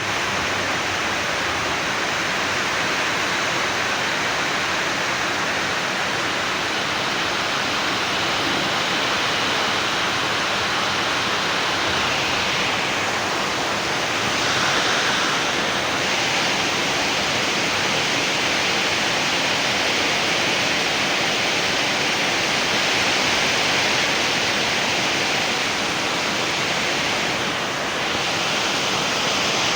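Steady rushing noise, even throughout, with no clear rhythm or pitch.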